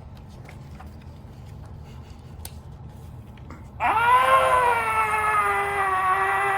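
A person's long, drawn-out 'Aaah!', an acted scream of fright, starting abruptly about four seconds in, rising in pitch and then slowly sinking as it is held. Before it, only quiet room tone with a few faint clicks.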